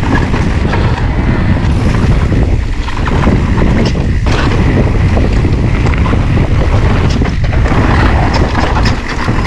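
Wind buffeting an action camera's microphone while a mountain bike is ridden along a woodland trail, with occasional sharp knocks and rattles from the bike over rough ground.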